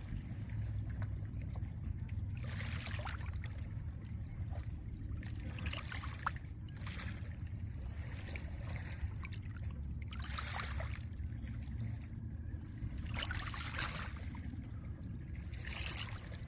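Small lake waves washing onto a pebble shore, a hissing wash about every three seconds over a steady low rumble.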